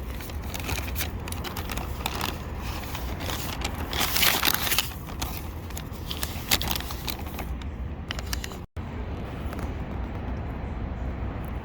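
Rustling and scattered clicks of handling noise over a steady low rumble, cut off briefly by a short gap about three-quarters of the way through.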